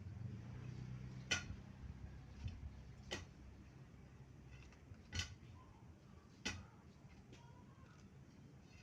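Four sharp knocks, irregularly spaced a second or two apart, each with a brief ring, over a faint low hum that fades after the first few seconds.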